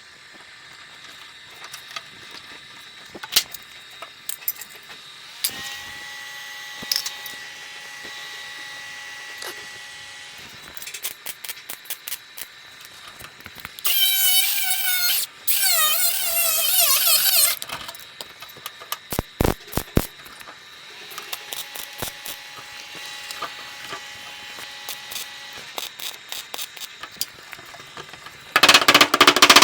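Metal bodywork in progress. There are short bursts of a hand power tool with a wavering, squealing whine, a steady machine whine, and scattered clicks and metal knocks, ending in a loud burst of noise.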